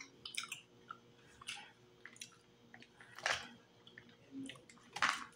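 Close-miked wet chewing of a steamed mussel, with scattered small mouth clicks. Two short, louder noisy sounds come about three and five seconds in.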